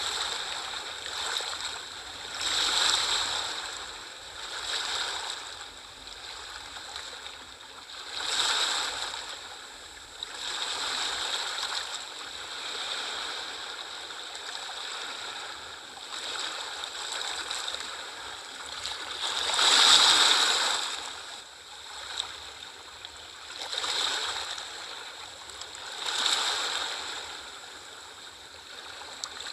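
Sea waves washing in: a surging hiss of water that swells and falls away every few seconds, with the largest wave about twenty seconds in.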